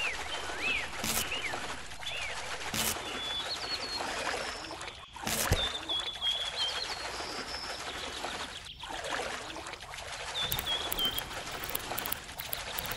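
Small birds chirping and whistling over a steady trickle of water, with three sharp clicks about one, three and five and a half seconds in.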